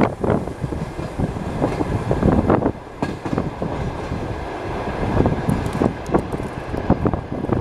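Passenger train carriage rolling along the track: a steady rumble of wheels on rails with irregular knocks and clacks as the wheels pass over rail joints.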